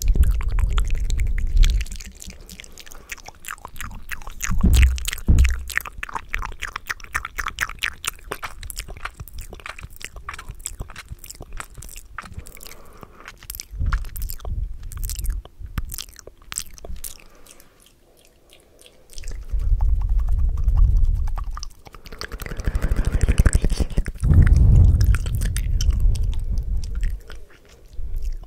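Close-microphone ASMR mouth sounds: rapid wet clicks and smacks. Several stretches of low rumbling thumps come in, at the start and twice in the last third.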